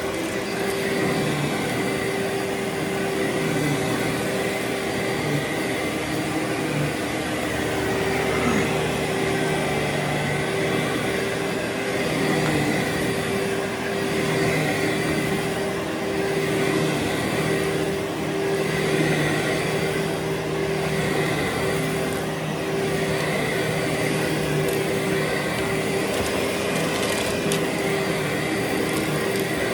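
Vacuum cleaner running steadily over a heavily soiled carpet, a constant motor hum with a steady whine on top.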